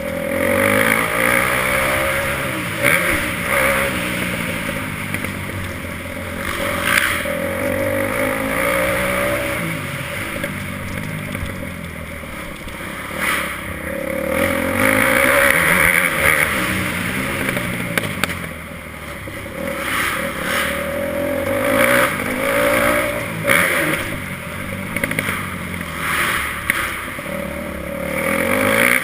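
Motocross bike engine revving up and down over and over, the pitch climbing and dropping every few seconds as the throttle is opened and closed.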